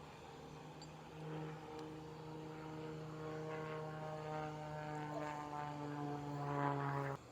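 A propeller airplane flying by, its engine hum steady in pitch and growing louder, cut off suddenly near the end.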